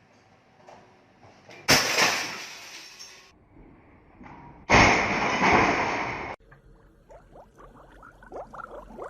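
Two sudden crashes about three seconds apart, each fading over a second or so, the second cut off sharply; faint quick chirps follow near the end.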